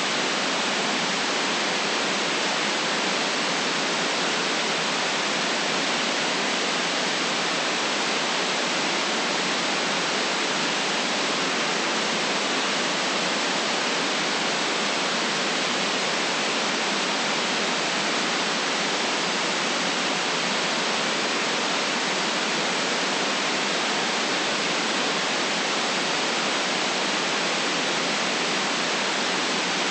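Steady electronic white noise: an even, unchanging hiss with no rhythm or events, cut off below the lowest bass and above the highest treble.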